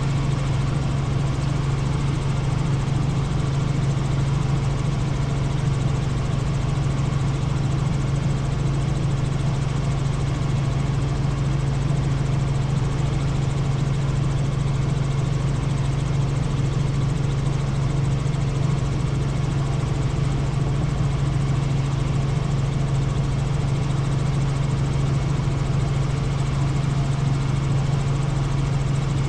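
Helicopter in flight, with a steady, unchanging drone of engine and rotor.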